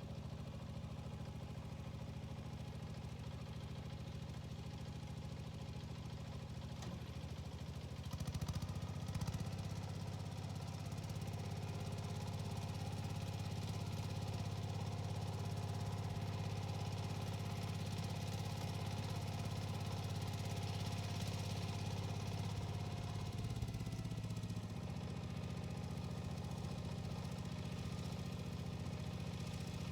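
Yanmar tiller's diesel engine running steadily at idle. About a quarter of the way in it speeds up and gets louder, then slows back toward idle a little past three-quarters of the way through.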